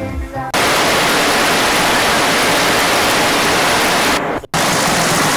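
Steady, loud roar of a large waterfall, an even rushing noise with no rhythm. It cuts out for a moment at about four and a half seconds and then carries on.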